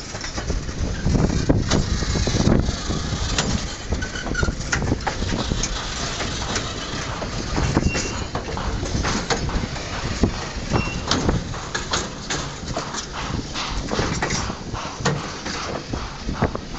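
Freight train of empty side-dump wagons rolling slowly past: a steady rumble from the wheels on the rails, broken by many irregular clanks and knocks.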